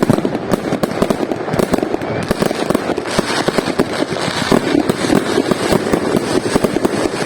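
Fireworks salute bursting in a dense, continuous run of rapid bangs and crackles, many per second.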